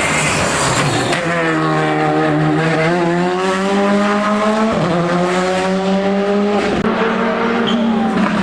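Race car engine revving hard on a hill climb, rising and falling in pitch several times as it changes gear and lifts for corners.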